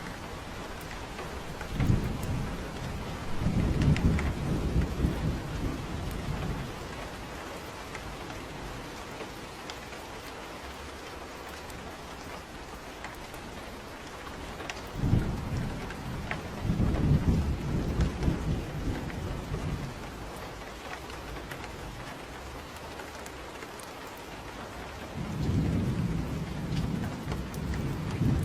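Steady rain with three rolls of thunder: low rumbles about two seconds in, around fifteen seconds in, and near the end.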